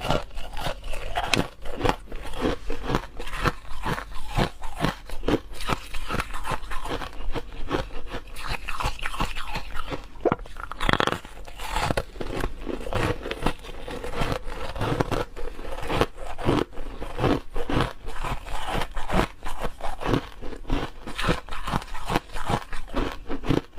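A person biting and chewing ice, with a dense, irregular run of sharp crunches throughout.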